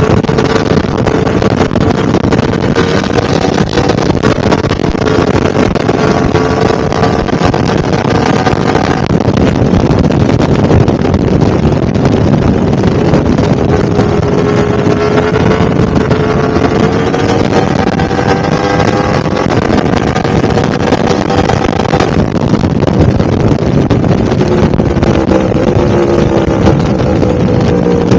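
Yamaha R1-M's crossplane inline-four engine running steadily under way, its note drifting slowly up and down with small throttle changes, with wind rushing over the microphone.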